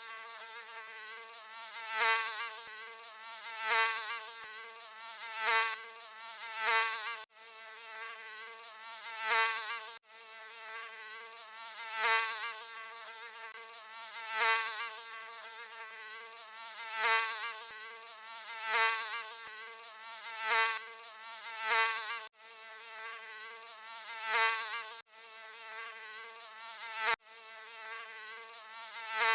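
Mosquito buzzing: a high, wavering whine that swells louder about every two seconds, as if flying close past the ear. It cuts out for an instant several times.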